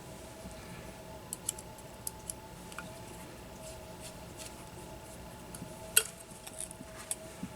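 Scattered light clicks and taps of small hand tools and drone parts being handled on a workbench, the loudest a sharp click about six seconds in, over a faint steady hum.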